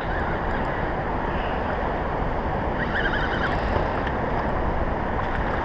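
Steady wind noise rushing over the microphone, with water noise around a small boat.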